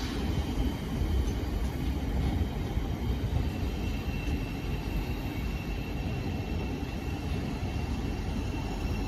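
Thameslink Class 700 electric multiple unit rumbling slowly along the platform as it comes in, with a faint steady high whine that appears about four seconds in.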